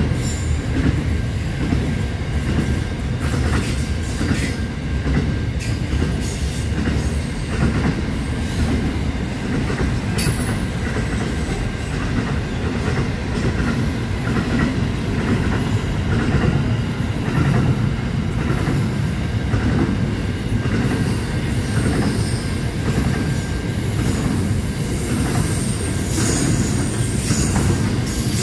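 Container freight wagons rolling past, a steady rumble of steel wheels on the rails with some clicking. Thin, high wheel squeals ride over it and grow stronger near the end.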